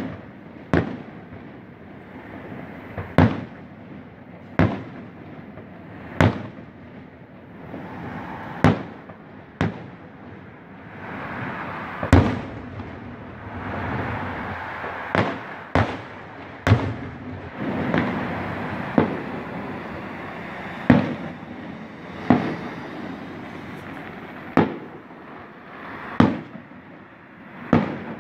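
Aerial fireworks shells bursting in a steady series, a sharp bang every one to two seconds, with a continuous fainter noise between the bangs that swells in the middle.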